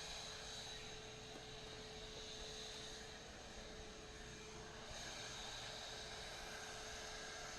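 Shop vacuum running steadily through a bee vacuum box, a faint even hum with a steady whine, at low suction with its valve open.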